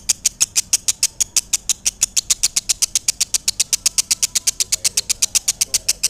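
Lovebird ngekek: a long, unbroken chatter of rapid, even, shrill chirps, about ten a second.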